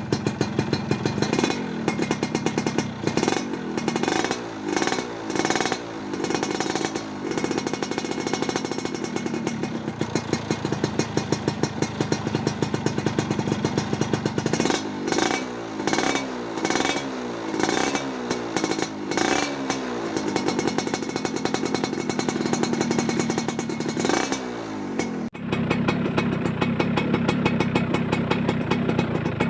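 Yamaha F1ZR two-stroke single-cylinder motorcycle engine with an aftermarket racing exhaust, idling and revved in runs of quick throttle blips, each rev rising and falling. There are two long runs of revs and a short one, with steady idling between them. Near the end it settles into a steady idle.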